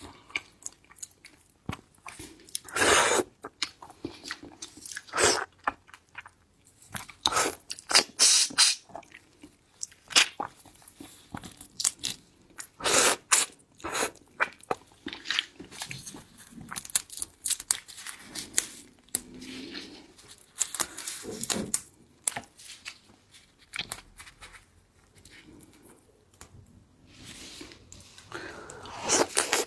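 Close-miked eating of shellfish: crunchy bites and chewing, coming in spells of sharp crackling crunches with quieter chewing between.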